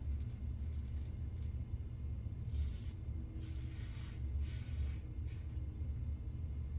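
Razor scraping through shaving lather on the face in a few short strokes, starting a little over two seconds in, over a steady low hum.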